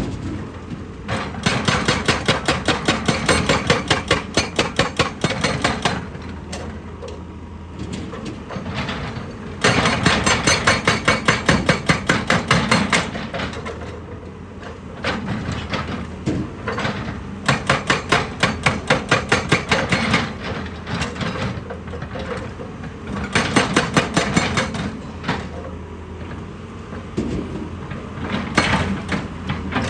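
Excavator-mounted hydraulic breaker hammering rock in five bursts of rapid blows, several a second, with pauses of a few seconds between bursts. Under it runs the steady drone of the excavator's engine.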